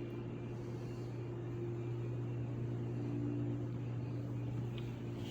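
A steady low mechanical hum with a fainter, higher steady tone above it, unchanging throughout.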